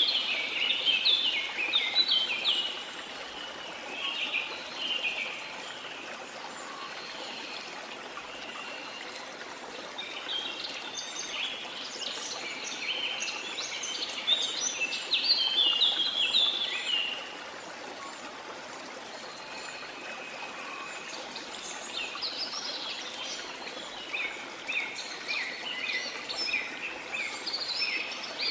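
Birds chirping in dense bouts of quick, high notes over the steady rush of a waterfall. The chirping comes in three spells: at the start, again from about ten seconds in, and again near the end.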